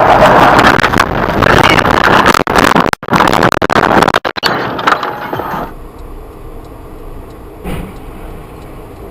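Loud car noise with many short knocks and rattles, cutting out briefly twice, then dropping suddenly to a much quieter steady hum a little past halfway.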